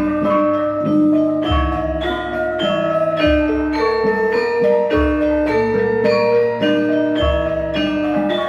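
Javanese gamelan ensemble playing a gending: bright bronze metallophone notes struck in a running melody over deep low strokes that come about every two seconds.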